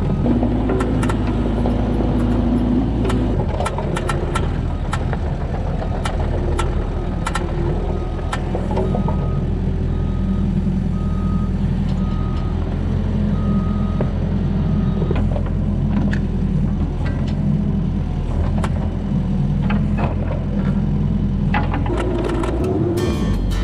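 Mini excavator engine running steadily, with scattered knocks. From about eight to fifteen seconds in, a repeated beep sounds about once a second.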